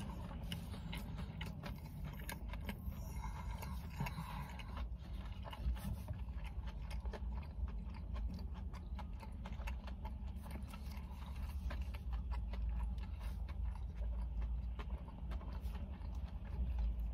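A person chewing a mouthful of crispy-coated chicken wrap close to the microphone: many small, sharp clicks and crunches over a steady low rumble.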